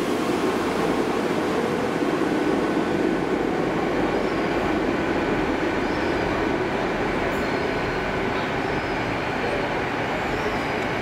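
Passenger train moving past the platform, followed by a GWR Class 158 diesel multiple unit coming in round the curve: a steady diesel engine hum and rumble of wheels on rail, with a few faint high wheel squeals.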